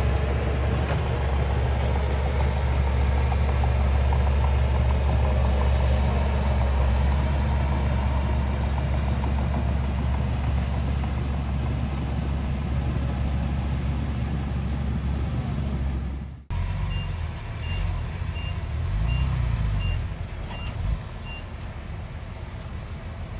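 Heavy diesel engine of earthmoving machinery running steadily. After an abrupt cut about two-thirds of the way through, the engine is quieter and a reversing alarm beeps about twice a second for several seconds.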